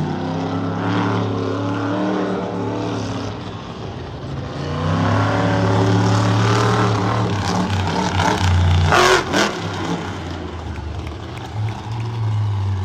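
Monster truck's big-block engine running under heavy throttle, rising about five seconds in and staying loud for several seconds, with a short sharp burst about nine seconds in before the engine drops back.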